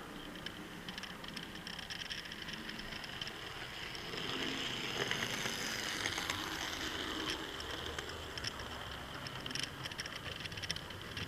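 Model train running along the track, its wheels clicking and rattling over the rail joints. It grows louder as it comes nearer, about halfway through, then eases off.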